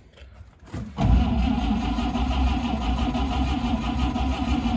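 A 1953 Chevy 3600 pickup's engine being cranked by the starter, kicking in about a second in with a steady fast pulsing churn. It keeps turning over without catching, which the owner puts down to it not getting fuel.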